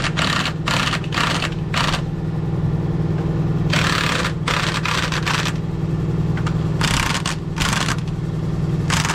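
Short, repeated bursts of an impact wrench loosening lug nuts on a truck wheel, over a steady engine hum.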